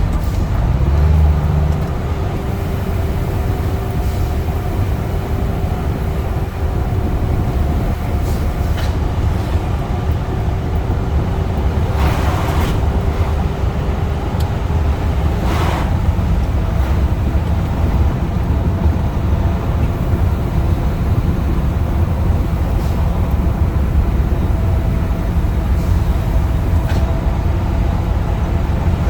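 Scania truck running steadily down the highway, a loud continuous low engine and road rumble. A faint steady whine runs through the first half and stops about 16 seconds in, with two brief rushing noises around 12 and 16 seconds.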